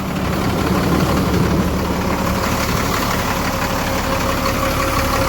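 Old Chevrolet truck's engine idling steadily, a low rumble, with a steady whine coming in about halfway.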